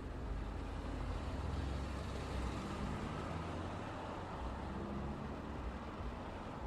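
Road traffic going by: a steady rumble of car and heavy-vehicle engines and tyre noise, with a deeper engine drone underneath.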